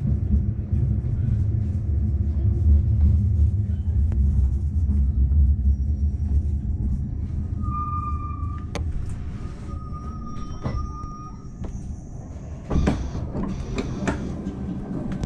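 Bernina Express train running with a low rumble that eases off as it slows. Two short beeping tones sound about halfway through, and a few sharp knocks and clatters come in the second half.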